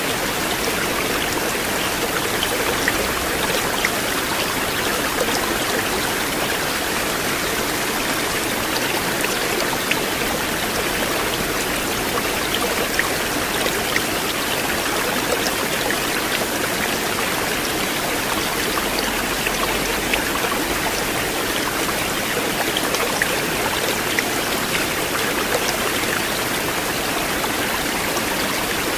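River water flowing: a steady, unchanging wash of water noise with many small splashing ticks scattered through it.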